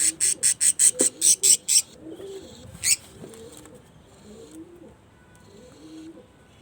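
Pigeons cooing, low wavering calls going on throughout. In the first two seconds a quick run of about a dozen loud, sharp high-pitched pulses, about five a second, sounds over them.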